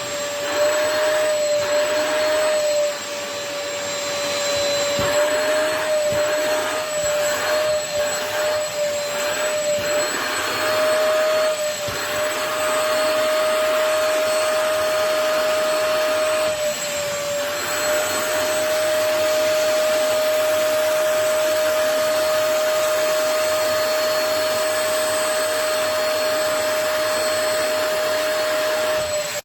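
Portable upholstery wet-vacuum spot cleaner running, its suction motor giving a steady high whine over airy suction noise, the pitch wavering slightly a few times.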